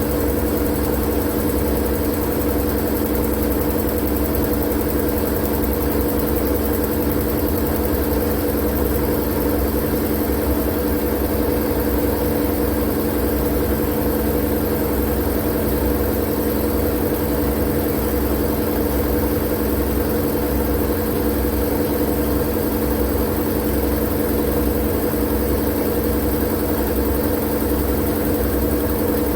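Continuous white-noise sleep sound: a steady, unchanging mechanical drone with a low rumble and a few steady hum tones under a hiss, like a running motor or engine.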